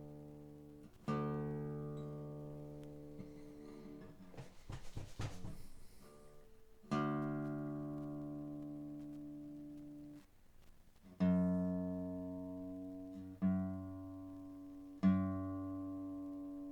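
Freshly restrung Seagull S6+ acoustic guitar, tuned down to D G C F A D, played while being tuned: a chord struck twice, each left to ring out, with a scratchy stretch of handling noise between. Then a lower string plucked three times as the new strings settle and are brought back to pitch.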